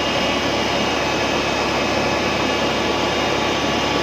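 Rice combine harvester running steadily, a loud, even engine and machinery noise.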